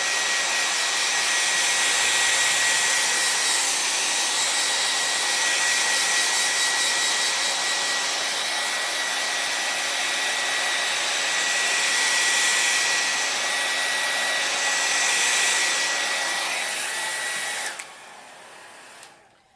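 Handheld hair dryer running on a steady setting: a rush of air with a thin steady high whine. It is switched off about two seconds before the end.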